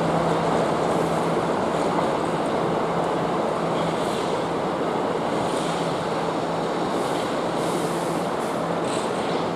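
Hankyu electric train running at speed, heard from inside the carriage: a steady rumble of wheels on rails, with a low hum that comes and goes and a few brief hisses.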